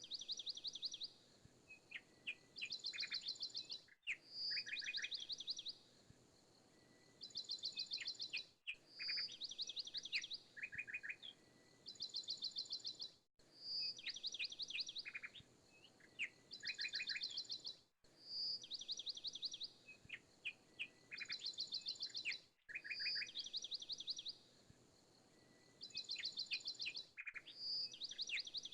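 Small songbirds chirping and trilling in a short recording that is looped, so the same phrase of calls comes round again about every four and a half seconds.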